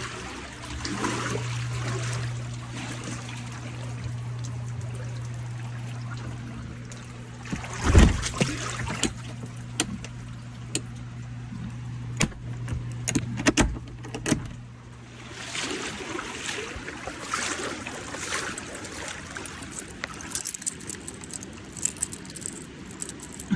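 A steady low machine hum that stops about fifteen seconds in, with a few sharp knocks around the middle and light metallic jangling and clattering later on.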